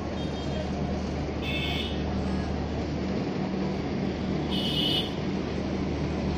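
Passenger train pulling slowly out of a station: a steady low diesel engine drone and rumble. Two short high-pitched squeals or whistles sound, about one and a half seconds in and again near five seconds.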